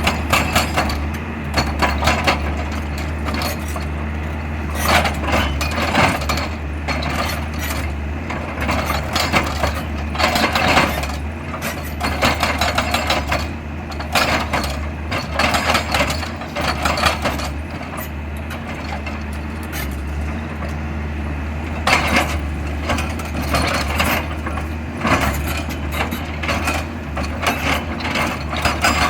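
XCMG XE200DA excavator at work: its diesel engine runs with a steady low drone, while repeated irregular bursts of clattering and knocking come and go every few seconds.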